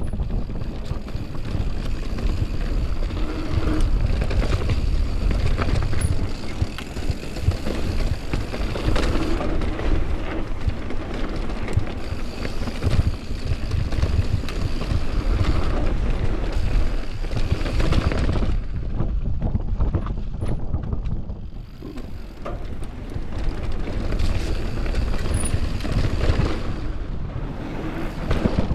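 Mountain bike descending a dirt downhill trail: tyres on dirt and the bike rattling over bumps, with wind buffeting the microphone. The noise eases briefly about two-thirds of the way through, then picks up again.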